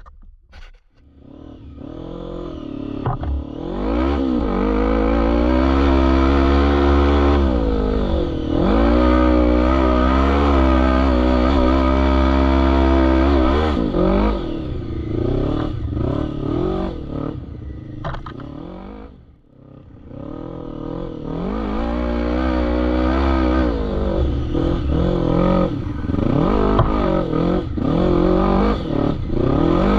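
ATV engine revving hard under load, its pitch climbing and falling repeatedly as the throttle opens and closes. It dies down briefly a little past the middle, then builds and revs again.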